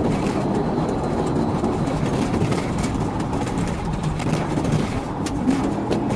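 Steady rumble of a vehicle driving at speed, engine and road noise, with a few short clicks near the end.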